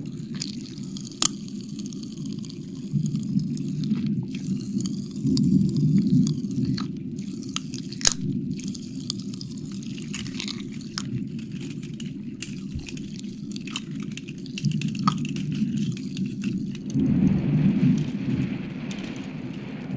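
Wet mouth sounds: licking and smacking close to the microphone, with scattered sharp wet clicks over a steady low rumble. Near the end a breathy hiss joins in.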